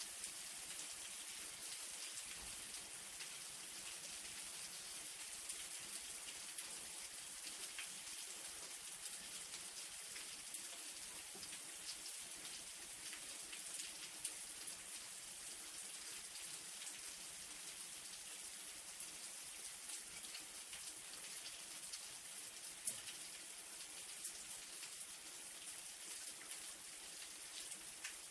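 Light rain falling steadily, a soft even hiss with scattered drop ticks and one sharper drip about twenty-three seconds in.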